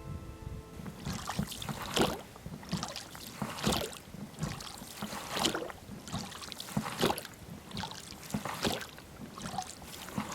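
Paddle strokes from a small inflatable PVC boat being rowed: a steady rhythm of splashes in the water, roughly one stroke every second, starting about a second in.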